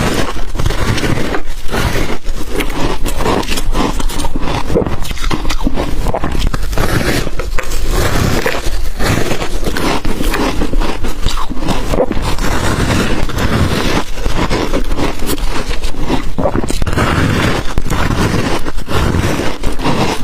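Ice being bitten and chewed close to the microphone: continuous crunching, with many sharp cracks packed closely together.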